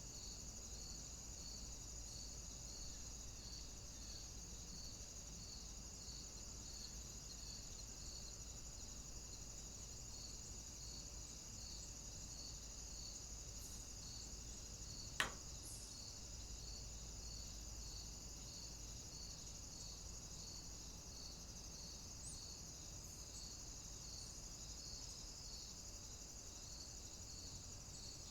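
Steady high-pitched chorus of cicadas, with a pulsing insect call repeating a little under twice a second. A single sharp click comes about halfway through.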